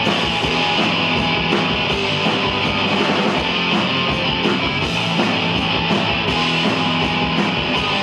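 Live rock band playing an instrumental passage with no vocals: electric guitar over bass and drums, with a steady driving beat.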